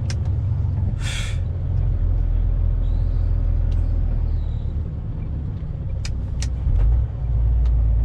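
Truck's diesel engine rumbling in the cab, with a short air-brake hiss about a second in and a few sharp clicks later on.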